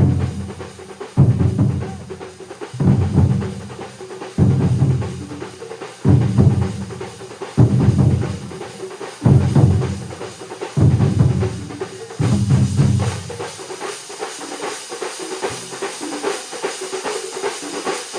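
A large drum ensemble playing. Heavy, booming strokes land together about every second and a half over faster drumming. After about twelve seconds the big strokes stop and a steadier, quicker beat continues.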